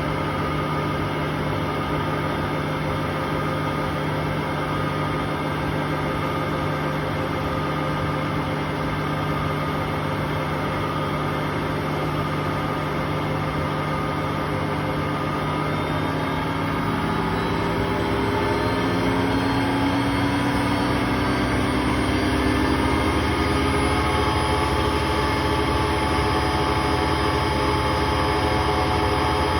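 Hotpoint Aquarius WMA58 washing machine spinning, with a steady drone. Past the halfway mark its pitch rises as the drum speeds up, and it then holds steady and slightly louder at top spin speed. The noise comes from bad drum bearings.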